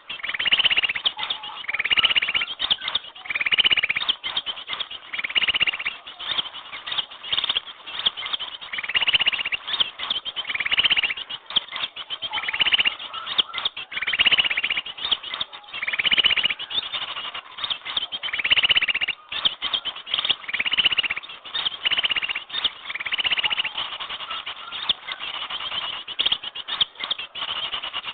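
Bird-lure recording of small birds calling: a loud, rapid trilled call repeating about every one and a half to two seconds over continuous high twittering.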